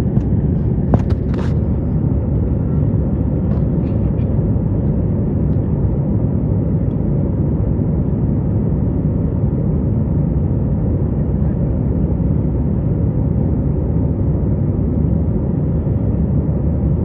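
Steady, loud rumble of an airliner cabin in flight, the noise of the engines and airflow, with a few small clicks about a second in.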